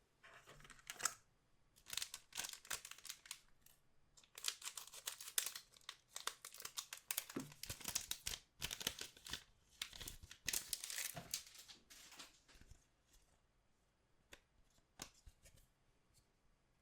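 Crinkly trading-card pack wrapper being torn open and handled, in irregular bursts of tearing and crinkling for about twelve seconds, then a few light ticks of handling.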